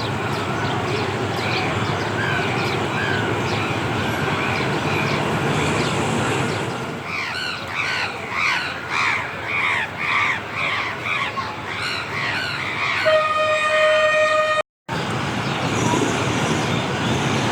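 A low rumble with scattered bird chirps. About halfway through, a bird gives a run of squawking calls, roughly two a second, and then a train horn sounds one steady blast of about a second and a half that cuts off abruptly.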